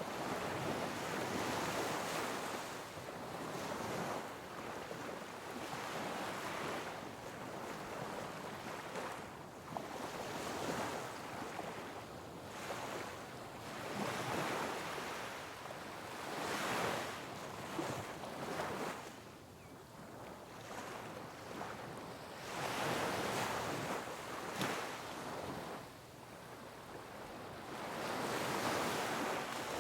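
Sea waves breaking on rocks, in repeated surges every few seconds that swell and wash back.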